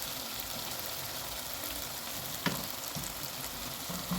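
Tomatoes sizzling steadily in a frying pan while being mashed, with a single sharp knock about two and a half seconds in.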